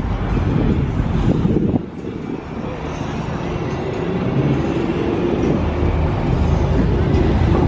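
Car engine running outdoors with street noise. The sound dips about two seconds in, then grows steadily louder.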